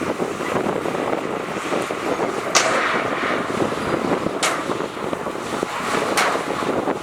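Heavy earthmoving machinery working, its diesel engine running steadily, with three short sharp high noises about two seconds apart.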